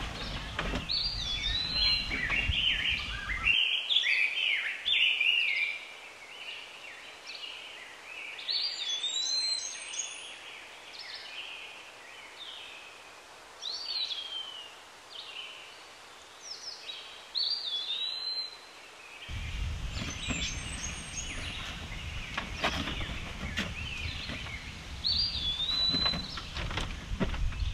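Birds calling again and again in short whistled notes, several of them swooping up and then holding. A low rumble of wind on the microphone comes and goes under them, dropping away a few seconds in and returning about two-thirds of the way through.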